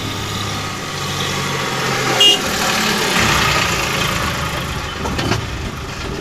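A car running on the road, with steady engine and road noise and a short, sharp louder sound about two seconds in.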